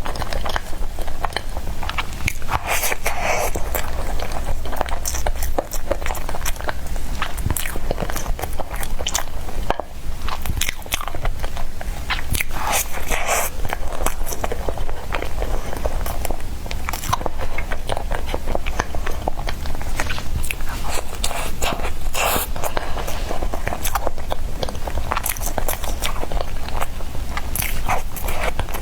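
Close-miked biting and chewing of soft bread: a dense, continuous run of small clicks and mouth sounds.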